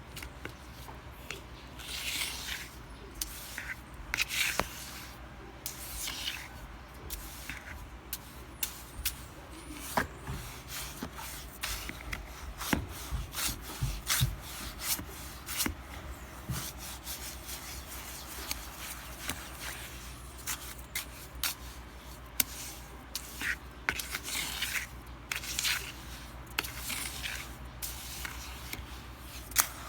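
Close rubbing and scraping sounds with brief hissy swishes and many scattered sharp clicks and taps, over a low steady hum.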